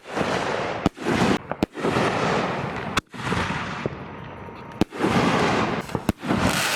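Fireworks going off: a series of sharp bangs, several close together near the end, each followed by a lasting hiss of noise as the burst fades.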